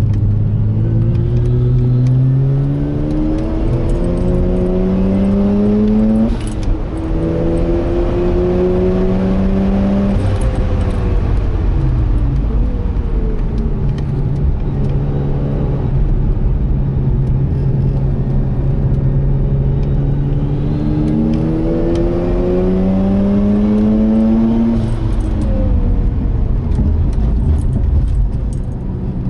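Turbocharged Mazda RX-8 13B twin-rotor rotary engine heard from inside the cabin, pulling hard on track: its pitch climbs, drops quickly about six seconds in, climbs again, eases off around ten seconds, runs steady for several seconds, then climbs once more before falling away near the end.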